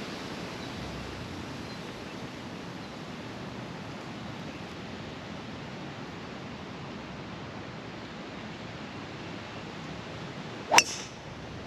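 Steady wind buffeting the microphone, then near the end a single sharp crack of a 3-wood striking a golf ball off the tee.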